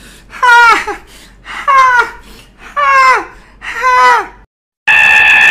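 Meme laughter sound effect: a voice gives four drawn-out cries, each falling in pitch, about one a second, then a steady high-pitched held tone cuts in near the end.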